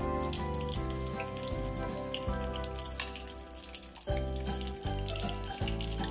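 Spring rolls of banana and jackfruit (turon) deep-frying in a wok of hot oil: a steady sizzle with quick crackles, heard over background music.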